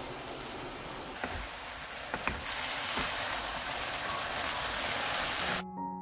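Beef bulgogi with vegetables and enoki mushrooms sizzling as it is stir-fried in a pan, with a few sharp knocks of the wooden spatula against the pan. The sizzling cuts off near the end and gentle piano music begins.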